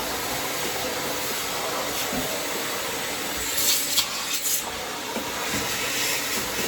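A steady, loud spraying hiss from a high-pressure spray cleaning a lawnmower's steel deck, with a few sharper surges about halfway through.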